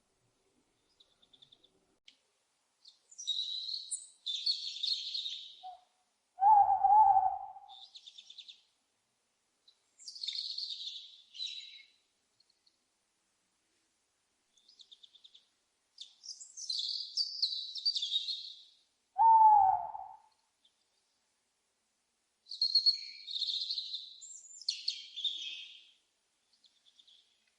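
An owl hooting twice, two short loud calls about thirteen seconds apart, over repeated bouts of high chirping from songbirds.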